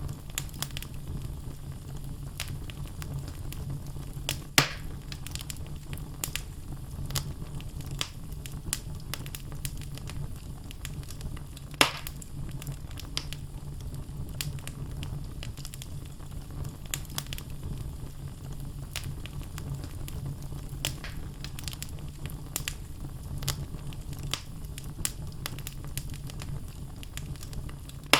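Wood fire burning in a fireplace: logs crackling with frequent small pops over a low steady rumble, and two sharp, louder pops, one about four and a half seconds in and one about twelve seconds in.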